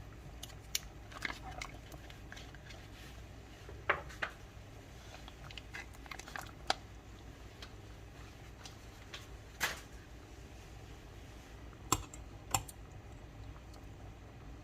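Kitchen utensils clicking and knocking now and then, a few sharp light strikes scattered over a low steady hum.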